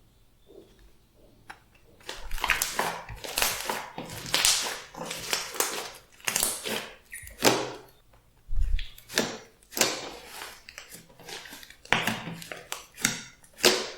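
Glossy slime being squeezed and kneaded by hand, giving irregular wet squelches and clicks one or two a second, starting about two seconds in.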